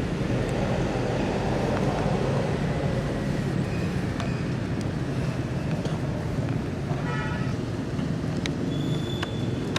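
Steady low outdoor rumble, like distant traffic, with a few faint clicks and a short high-pitched call about seven seconds in.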